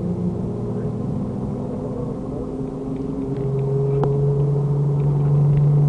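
Nissan 350Z's 3.5-litre V6 through an aftermarket full exhaust, heard from inside the car while it is driven hard on track. The engine note holds fairly steady, then from about halfway a deeper, stronger note comes in and grows louder as the engine pulls under load.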